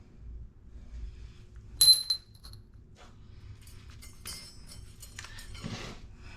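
A sharp metal clink with a short ringing tone about two seconds in, followed by a few faint light clicks and a soft rustle near the end: metal bike parts and hand tools being handled and set down during brake work.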